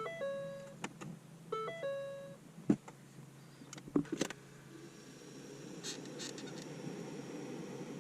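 Ford Fiesta ST's electronic dashboard chime sounding twice, a short run of steady tones each time, about a second and a half apart. A few sharp clicks follow in the middle, then a steady fan-like whir with a faint high whine as the climate system runs.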